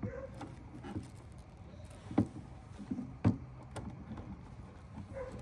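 Scattered clicks and knocks of hands working plastic parts and a wiring harness, two sharper knocks standing out about two and three seconds in.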